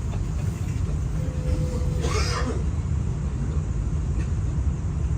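Steady low rumble of a light-rail train running, heard from on board, with one short higher-pitched sound about two seconds in.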